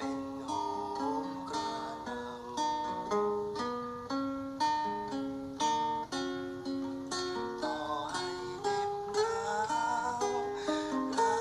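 Instrumental music: a melody of quick plucked notes on a guitar-like string instrument, without singing.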